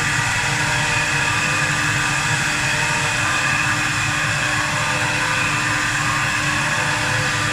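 4-axis CNC wood lathe running as it turns a pine sofa leg: a steady hiss of machining noise with several steady whining tones from the spindle drive.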